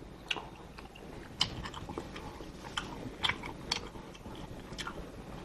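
A person chewing food close to a clip-on microphone, with scattered wet mouth smacks and clicks at irregular intervals.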